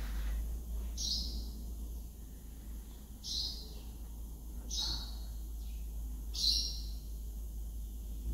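A bird chirping: about four short, high calls that slide downward, one every one and a half to two seconds, over a steady low hum.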